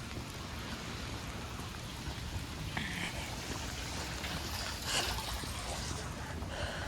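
Steady hiss of rain and trickling water, with a single sharp tick about five seconds in.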